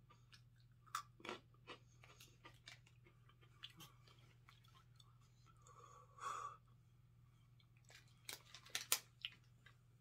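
Close-up crunching and chewing of thin, crisp Pretz breadsticks: scattered small crunches, louder and quicker in the last two seconds.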